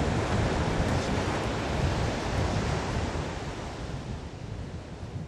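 Steady rushing noise, heaviest in the low end, fading out near the end.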